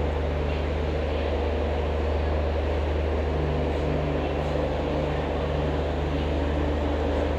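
Passenger train of yellow coaches running past on a far track: a steady low rumble of wheels on rails with an even rushing noise over it.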